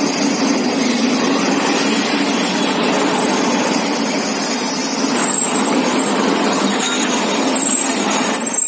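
Yangon Circle Line passenger train rolling slowly in beside the platform: a steady, loud rumble of wheels and carriages, with a few short high squeals in the second half.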